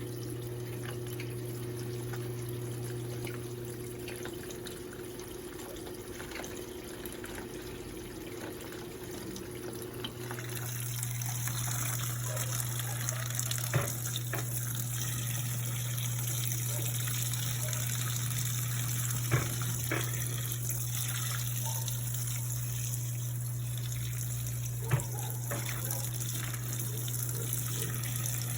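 Electrolux LPE16 washing machine filling with water, water running into the tub with a steady hum under it. About ten seconds in the rush of water gets louder and hissier, and there are three short clicks later on.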